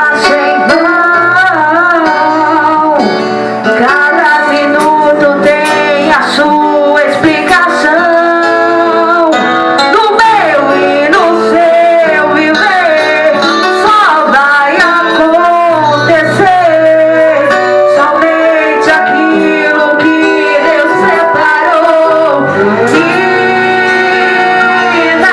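Gospel worship song: singing over guitar accompaniment with sustained low bass notes.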